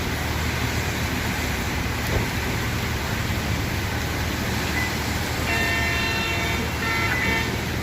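Bus running on the road: steady engine hum and road noise, with a vehicle horn sounding for about two seconds near the end.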